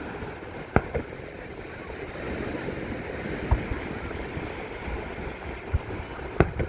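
Fireworks exploding: a handful of sharp bangs, two about a second in, one near the middle and a couple near the end, over a steady noise of wind on the microphone.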